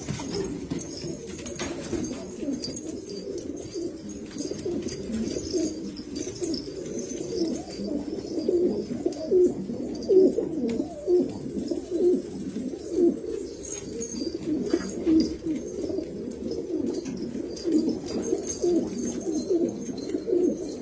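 Domestic pigeons cooing, many low coos overlapping continuously from several birds at once.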